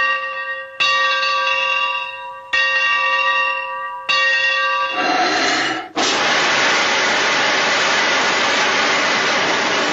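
A bell-like metallic ring, struck three times about a second and a half apart, each stroke dying away. About six seconds in, a loud steady hiss takes over.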